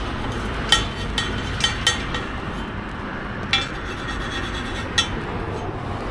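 Metal cooking utensils clinking against pans or trays at a street food stall: several separate sharp, ringing clinks a second or so apart over a steady background hiss.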